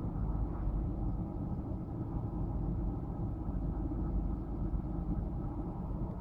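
Pond airlift driven by an LK60 (ACO-318) air compressor running, a steady low churning rumble of air and water.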